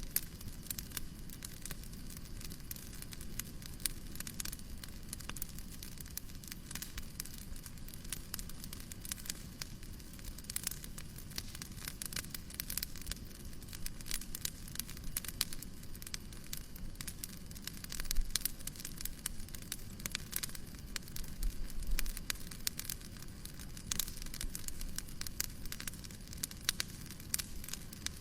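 Fireplace crackling: many small, sharp pops over a steady low noise, with a few louder pops past the middle.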